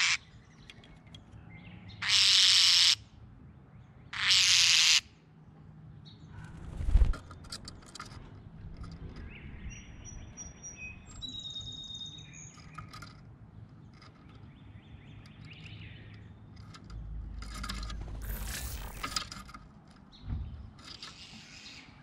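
Songbirds chirping: a few short, thin whistled notes and chirps about halfway through. Two loud bursts of hissy noise come in the first five seconds, another longer stretch near the end, and soft low thumps twice.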